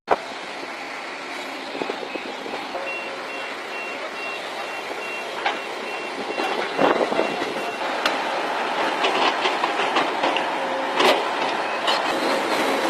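Heavy construction machinery running, its reversing alarm beeping steadily for a few seconds near the start. There are a few sharp clanks later on.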